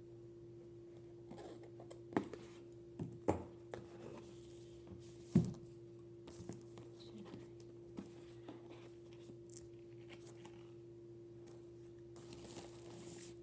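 Packaging being handled during an unboxing: scattered clicks and knocks, the loudest about five and a half seconds in, with a short rustle of tearing or crinkling near the end, over a steady low hum.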